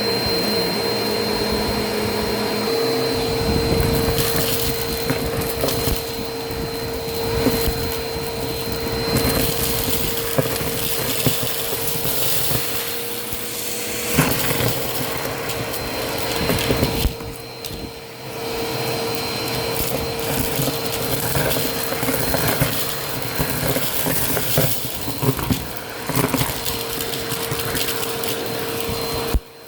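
Vacuum cleaner running with a steady motor hum and whine while crunchy debris crackles and rattles up the nozzle. The sound thins out briefly a little past halfway, then the crackling resumes.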